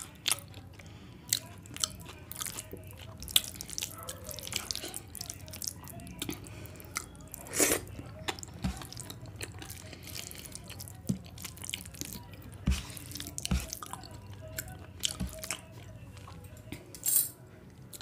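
Close-up eating sounds of a mouthful of rice and curry: wet chewing with frequent sharp lip smacks and mouth clicks, a couple of them louder, about eight seconds in and near the end.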